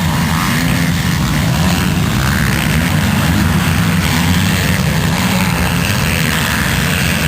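Motocross motorcycle engines running with a steady, loud drone.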